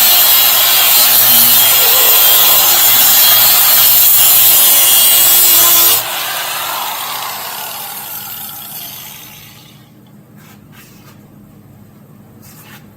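Handheld cut-off wheel cutting through a small piece of sheet steel with a loud, steady grinding scream. About six seconds in it stops cutting abruptly, and the wheel winds down over the next few seconds.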